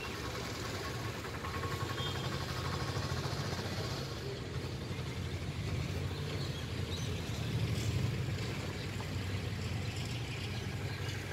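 Low, steady rumble of a distant Vande Bharat Express electric train approaching along the line, swelling slightly now and then, with faint outdoor background noise.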